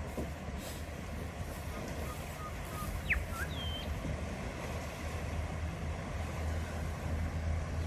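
A four-wheel-drive's engine running with a steady low rumble during a river crossing, getting slightly louder toward the end. A few short high chirps come about three seconds in.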